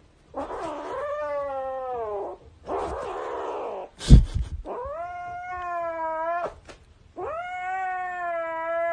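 A cat yowling in three long, drawn-out wails, with a breathy noisy stretch between the first two. A sharp thump comes about four seconds in.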